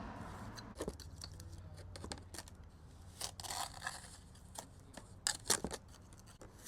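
Steel pointing tool scraping and clicking against wet mortar and flagstone as mortar is pushed into the joints, in short, irregular strokes with a few longer scrapes.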